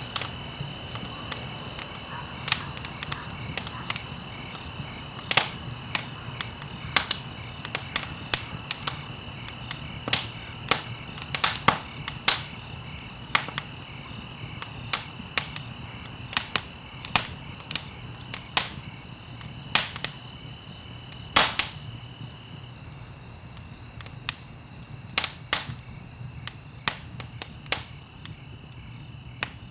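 Wood fire crackling and popping in a fireplace: irregular sharp snaps, a few louder pops, over a low, steady rumble of the flames. A faint steady high-pitched tone runs underneath.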